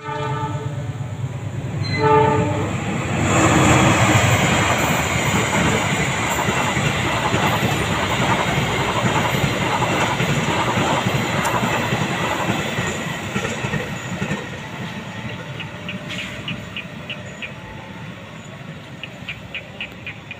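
Passenger train horn sounding a long blast and then a short one, followed by the train passing close with a loud rumble of wheels on rails that slowly fades. Near the end, the wheels click rhythmically over the rail joints, about four clicks a second.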